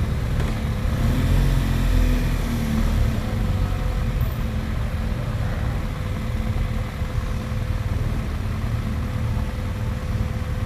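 Steady low engine rumble on a ferry's vehicle deck, with a faint constant hum over it.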